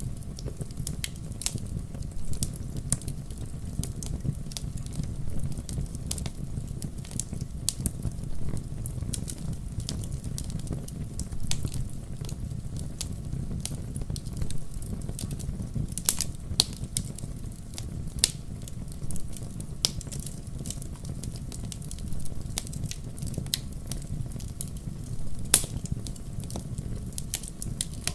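Wood campfire crackling: irregular sharp pops and snaps of burning wood, a few louder ones standing out, over a steady low rush of the fire.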